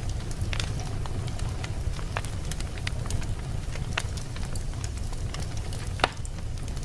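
Wood fire burning in a fireplace: a steady low rumble of flames with frequent irregular crackles and snaps, one sharper pop about six seconds in.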